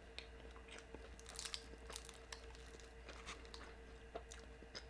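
Close-up mouth sounds of a person biting into and chewing a deep-fried carne asada empanada: faint, irregular crunches of the crisp fried crust, busiest about a second and a half in.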